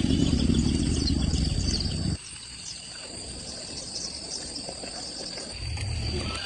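Insects chirring in a steady high tone, with a loud low rumbling noise over them that cuts off suddenly about two seconds in and comes back briefly near the end.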